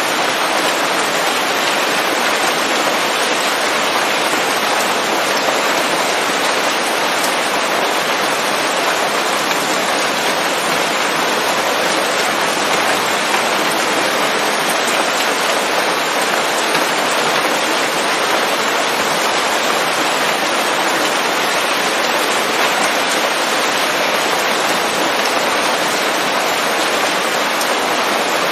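Steady rain falling on leaves, an even hiss of many small drops with no let-up.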